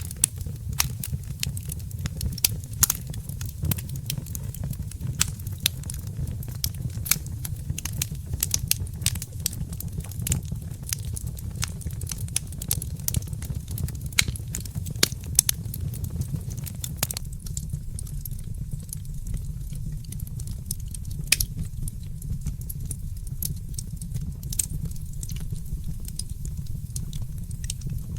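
Wood fire crackling in a fireplace: frequent sharp pops and snaps over a steady low rumble, the pops thinning out about two-thirds of the way through.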